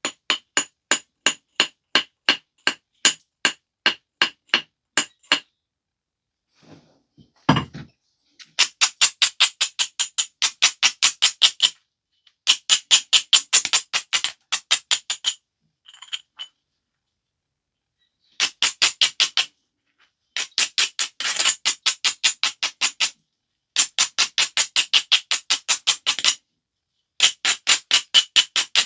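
Flint biface being worked with a stone tool: runs of short, sharp stone-on-stone strokes with a glassy ring, about three to five a second, in bursts of a few seconds with short pauses between. One heavier, deeper knock comes about seven and a half seconds in.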